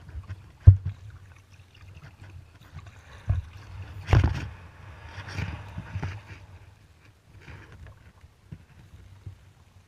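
Kayak paddling: the paddle splashing through the water, with a few sharp knocks, the loudest a little after four seconds in.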